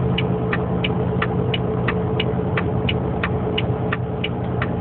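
Semi-truck diesel engine running steadily in the cab, held in a low gear (ninth) at about 34 mph on a steep downgrade, with a steady drone. A regular light ticking about three times a second runs over it.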